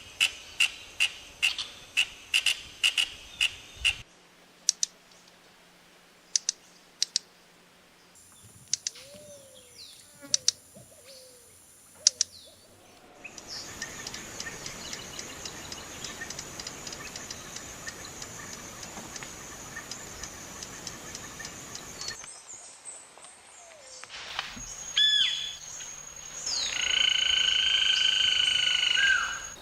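Calls of several different birds in turn, with abrupt cuts from one recording to the next: first a fast run of sharp repeated notes, then sparse chirps and short slurred notes, then a steady high hiss, and near the end loud whistles, the last one held for a few seconds.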